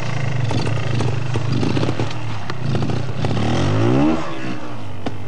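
Trials motorcycle engine running at low revs, then revving up in a rising note about three seconds in and dropping back sharply a second later as the bike works up a steep bank.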